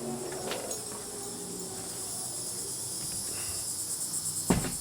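Chorus of insects buzzing: a steady, high-pitched, finely pulsing drone. A single loud thump near the end.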